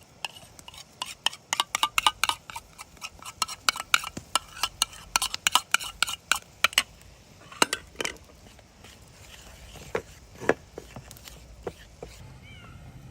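A rapid series of sharp clinks and taps with a ringing tone, dense for about seven seconds, then a few sparser, heavier knocks.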